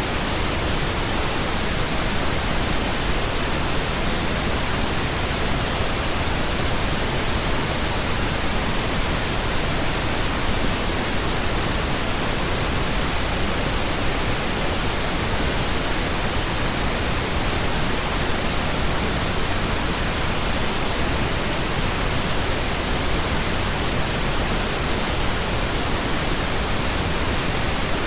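Steady synthetic pink noise: an even, unbroken hiss spread across all pitches, with no change or break.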